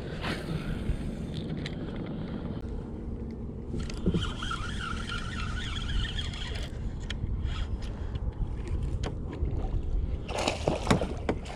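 Kayak hull and gear noise: a steady low rumble with scrapes and scattered clicks, and a brief wavering whine in the middle.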